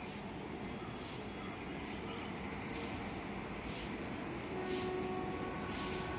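A bird gives a short whistle falling in pitch, twice, about three seconds apart, over a steady background hiss.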